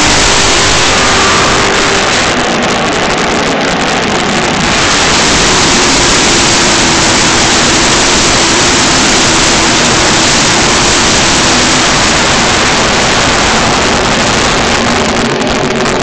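A pack of NASCAR Nationwide Series stock cars' V8 engines running at full speed past the turn, a loud continuous engine din that covers everything else.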